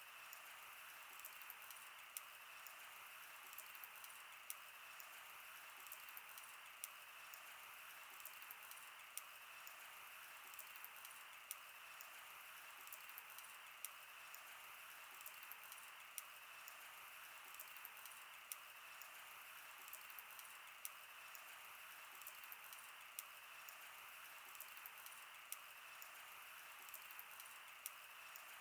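Wood campfire crackling: a steady low hiss of burning with frequent irregular sharp pops and snaps.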